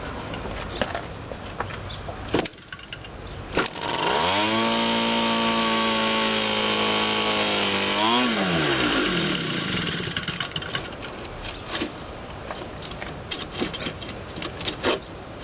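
Quadra 52cc single-cylinder two-stroke model-aircraft gas engine hand-started by flipping the propeller: a couple of sharp knocks, then it catches and runs steadily for about four seconds, revs up briefly, then winds down and stops.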